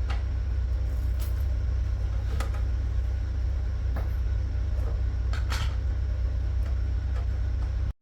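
A steady low rumble with scattered light clicks and knocks over it, cutting out for an instant near the end.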